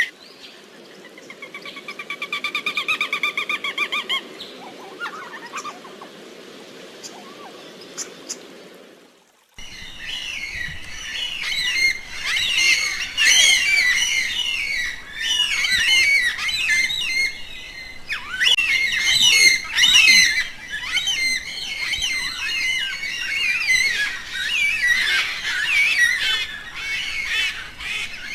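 Birds calling. First comes a single rapidly pulsing, trilled call over a steady low rushing noise. Then, after an abrupt change about nine seconds in, a dense chorus of many birds chirping and squawking over one another.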